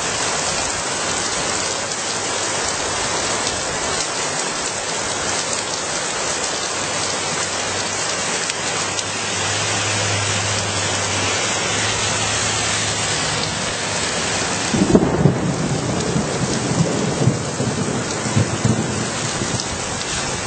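Steady heavy rain falling on the street. In the last five seconds a low, irregular rumble of thunder rises over it.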